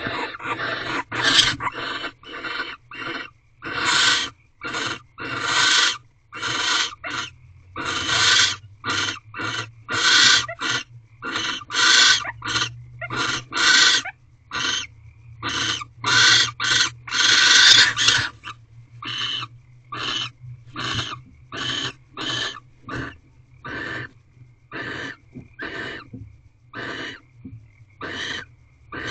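Barn owls in a nest box giving a long series of raspy, hissing screech calls, about one to two a second, typical of a pair calling during mating. The calls are longer and louder for the first two-thirds, then turn shorter and fainter.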